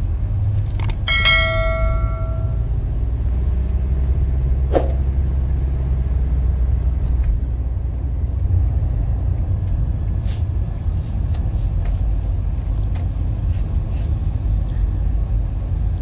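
Steady low rumble of a Shinkansen bullet train, with a short ringing chime about a second in.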